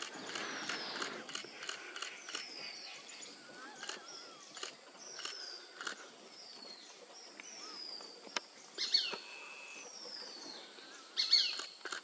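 A bird repeatedly gives a short high whistle that slides downward, about once a second, among sharp clicks. Two louder calls come near the end.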